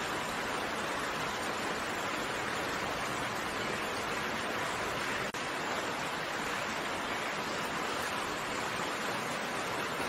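Steady rain falling as a dense, even hiss, with a momentary dropout about five seconds in.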